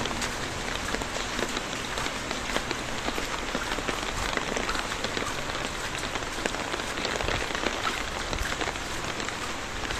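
Steady rain falling on wet pavement and the surfaces around it: an even hiss made of many small, close drop ticks.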